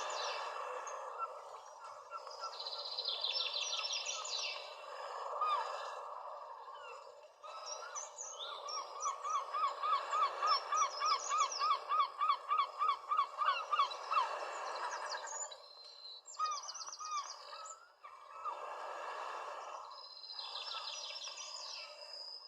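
Several wild birds singing outdoors: high rapid trills come and go, and in the middle one bird repeats a short note about four times a second for several seconds, over a steady background hiss.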